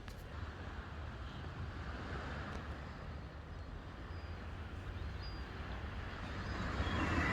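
Sea waves washing onto the shore, the surf swelling a couple of seconds in and building to its loudest near the end, over a steady low rumble of wind on the microphone.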